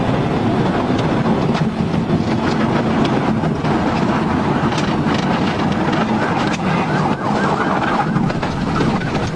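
Police car driving fast in a pursuit: steady engine, tyre and wind noise heard from inside the cruiser.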